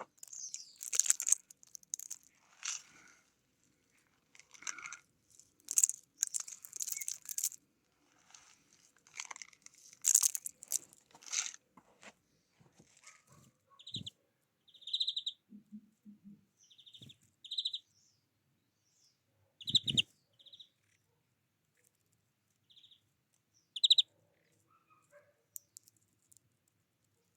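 Small wild birds chirping in short, irregular bursts, then giving a run of short, clear call notes spaced a second or so apart. A few soft knocks are heard among the calls.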